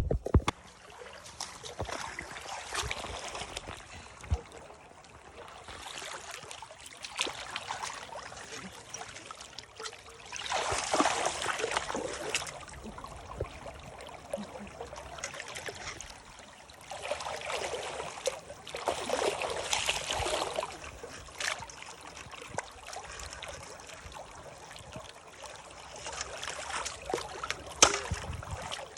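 Water trickling and splashing in spells of a few seconds, louder twice in the middle, with scattered clicks and knocks.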